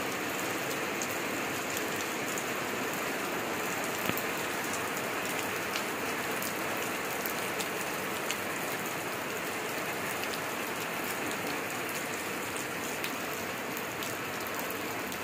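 Heavy rain falling steadily, with scattered sharp ticks of drops striking close by.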